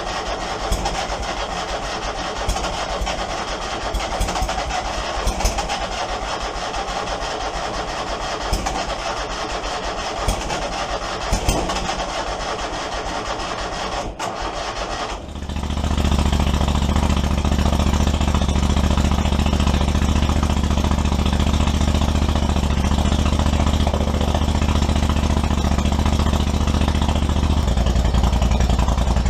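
A noisy mechanical clatter with scattered clicks for about fifteen seconds, then a sudden change to a Kohler Command 25 V-twin engine running steadily, louder and deeper, the freshly repaired engine running smoothly on both cylinders.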